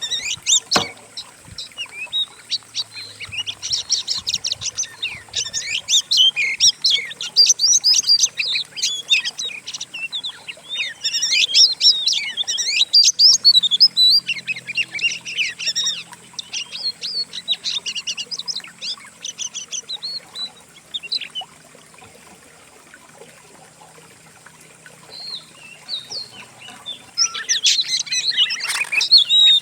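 Songbirds singing: a dense mix of rapid, varied chirps, trills and whistles from several species layered together. The song thins to a few scattered calls past the middle and turns dense again near the end.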